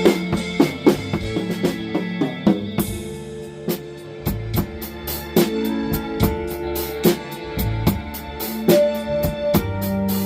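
Drum kit played in a blues groove, kick, snare and cymbals, over a blues backing track with guitar and bass; a cymbal crash rings out about three seconds in.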